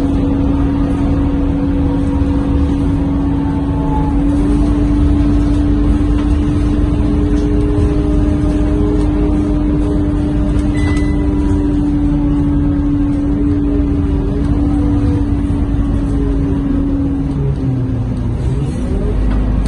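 Scania K230UB diesel bus heard from inside the cabin while moving: the engine and drivetrain run with a steady whine over a low rumble. The whine steps up in pitch about four seconds in, then falls and dips near the end as the bus slows, before rising again.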